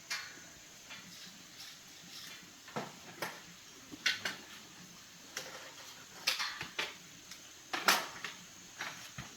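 Irregular light clicks and knocks of tools and small parts being handled during a repair, the loudest about eight seconds in, over a faint steady high hiss.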